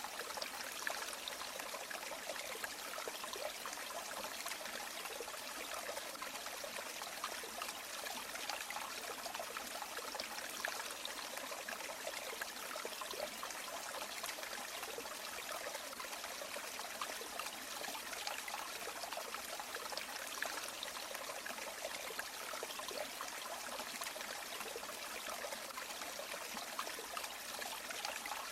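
A river flowing: a steady rush of water with light, constant splashing.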